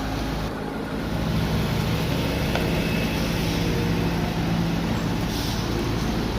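Heavy diesel truck engine labouring as the truck tries to climb a steep grade on rain-wet asphalt. It is a steady, low engine note that gets louder about a second in.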